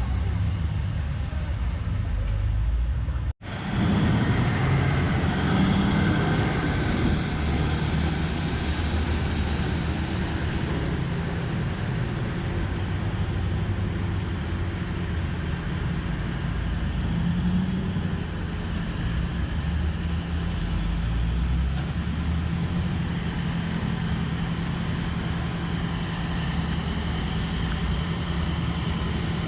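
Large diesel engine of a Komatsu 730E mining haul truck running steadily with a low rumble. The sound cuts out for an instant about three seconds in.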